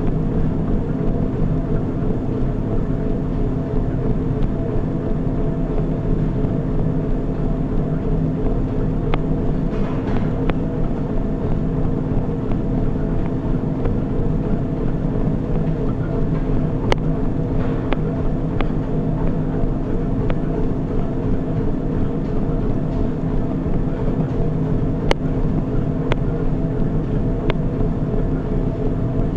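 Motorised treadmill running, with a steady motor hum and belt noise and a few sharp clicks along the way.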